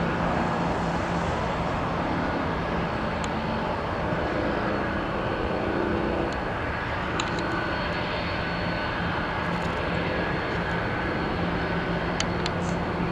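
Jet airliner engines running with a steady rushing noise and a faint high whine, with a few sharp ticks near the end.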